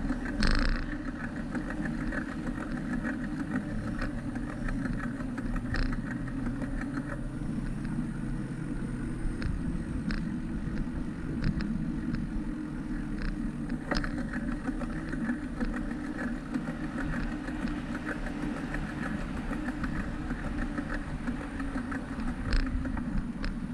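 Steady riding noise from a moving bicycle on a street: continuous rumble of wind and tyres on the microphone, with scattered short clicks and knocks.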